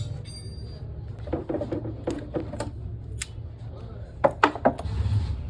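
Metal tools clinking and knocking against metal parts in a run of sharp clicks, loudest in a quick cluster near the end. A low steady hum drops away at the start and comes back just before the end.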